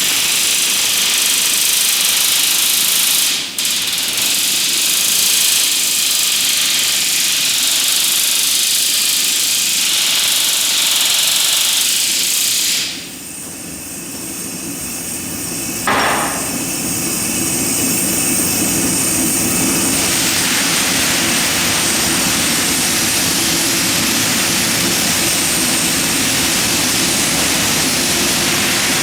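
Pneumatic riveting hammer rattling steadily as hot steel rivets are closed on a riveted steel narrowboat hull. It pauses briefly just after 3 s, goes quieter for a few seconds from about 13 s, and a single sharp knock comes about 16 s in before the rattling resumes.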